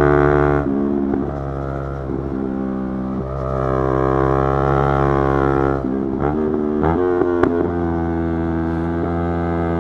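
Yamaha YZF-R3's parallel-twin engine running at steady high revs. The level drops about half a second in and pulls up again around three seconds. Between six and seven and a half seconds the pitch rises and falls quickly several times before holding steady again.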